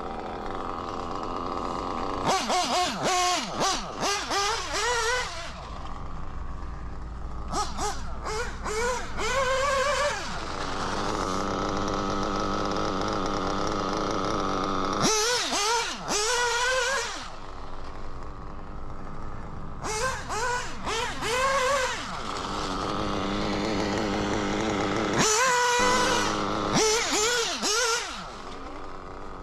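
SPower B7TT nitro engine, a .21-size engine based on the O.S. B2104, blipped through about five bursts of throttle with the pitch jumping up and down, settling back to a steady idle in between.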